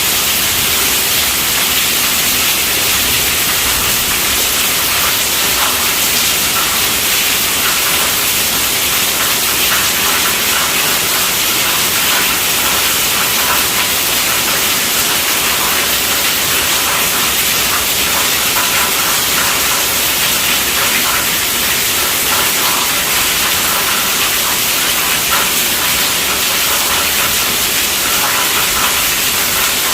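Heavy rain falling on a tent roof: a steady, even hiss.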